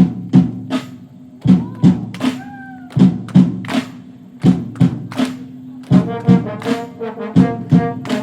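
A wind orchestra strikes up a piece: sharp drum strikes in repeated groups of three, about every second and a half, over held brass notes, with fuller brass chords coming in near the end.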